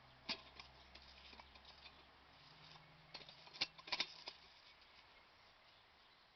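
Camping kettle being handled: faint, scattered light clicks and taps, with a sharper click just after the start and a quick cluster of clicks around four seconds in.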